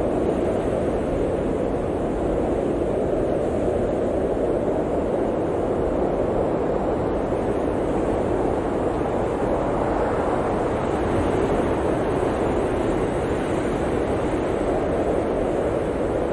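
Blizzard wind blowing steadily, a deep rushing noise that swells slightly a little past the middle.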